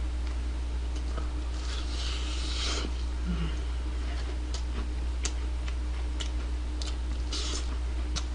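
A person chewing and gnawing fried chicken close to the microphone: scattered wet mouth clicks and smacks and two short crunchy, rustly stretches, over a steady low electrical hum.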